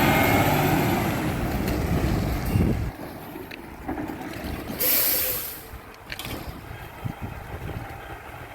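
Garbage truck's diesel engine running loudly, then falling away sharply about three seconds in, followed by a brief loud hiss of air near the middle and a faint low rumble with a few clicks.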